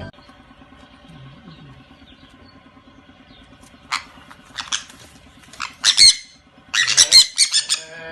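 An animal's short, shrill squawks: a faint steady hum for the first few seconds, then single sharp calls about four seconds in, becoming a quick run of loud squawks near the end.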